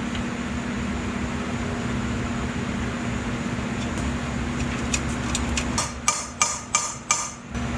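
Steady hum, then four sharp hammer blows on metal near the end, about three a second, each ringing briefly, with a few lighter taps just before. They are struck to jar a seized exhaust-manifold bolt loose.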